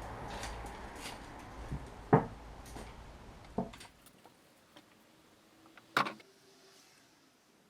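A low steady hum that dies away after about four seconds, with three separate sharp knocks, the loudest about two seconds in.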